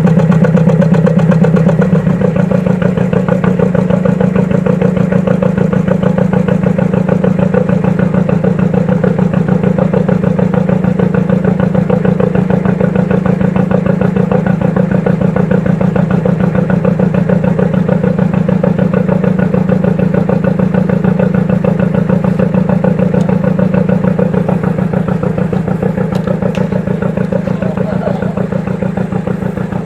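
An engine running steadily with an even pulse, its note shifting slightly about two seconds in.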